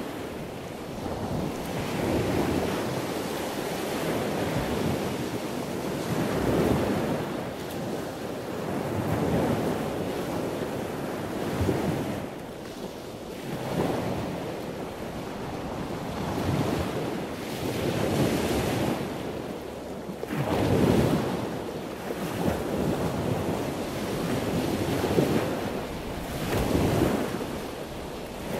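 Wind buffeting the microphone over waves washing onto the beach: a steady rushing noise that swells and fades every second or two.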